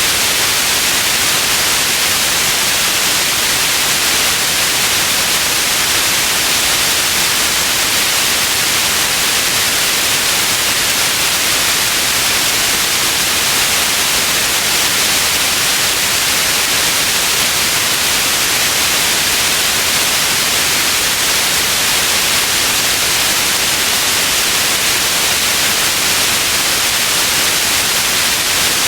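Steady synthetic white noise: an unchanging hiss, brightest in the high frequencies, with no events or variation.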